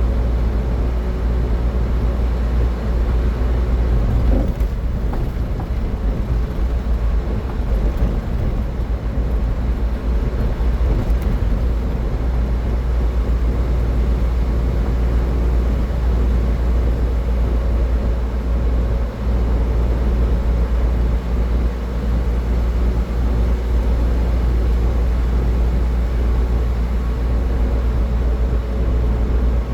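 A car driving at highway speed, with steady road and tyre noise and a strong low rumble.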